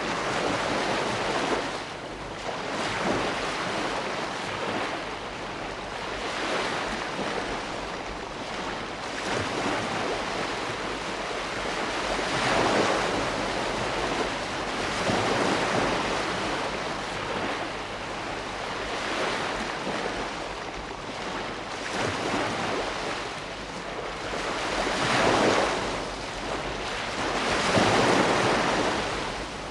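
Ocean waves breaking and washing on the shore, a continuous surf hiss that swells and fades every few seconds.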